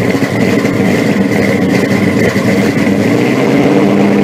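Car engine idling steadily and loud, its firing pulses even throughout.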